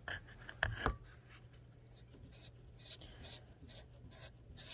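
Willard's Tipper cue-tip trimmer's blades shaving a Kamui Super Soft leather cue tip as the cue is turned in it: light scraping strokes, a couple or so a second, starting after a few handling knocks in the first second.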